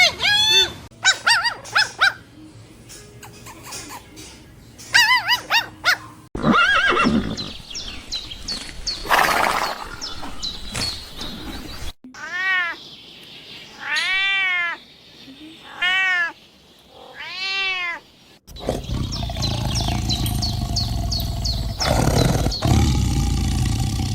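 A run of short animal-call clips joined by abrupt cuts, mostly drawn-out cat meows that rise and fall in pitch, with three clear meows in a row in the middle. Near the end a noisier stretch with short high chirps takes over.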